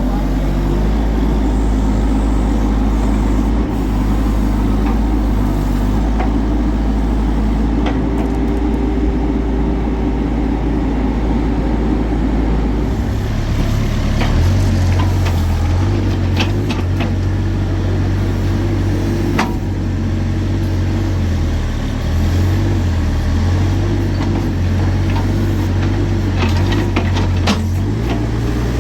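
A motor vehicle's engine running steadily. Its low hum changes to a different steady pitch about halfway through, with a few short clicks and knocks later.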